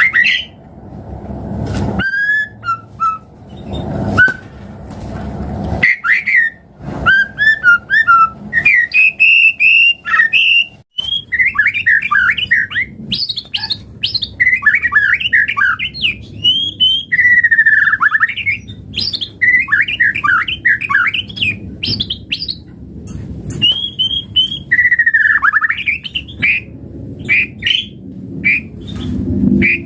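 White-rumped shama singing a long, varied song of clear whistles and fast warbled phrases, broken by short pauses.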